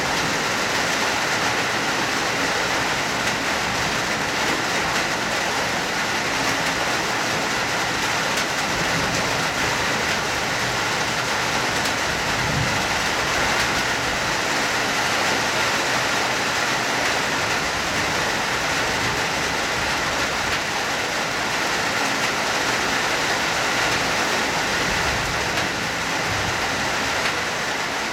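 Hard rain falling steadily, a dense, even downpour that never lets up.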